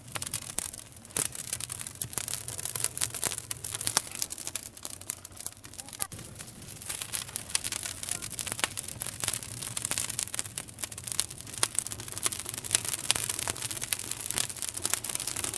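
Campfire burning with dense irregular crackling and sharp pops from the burning wood, over a steady low hum.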